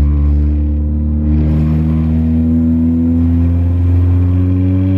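Honda Accord's 1.5-litre turbocharged four-cylinder engine accelerating, heard from inside the cabin, its drone rising slowly and steadily in pitch.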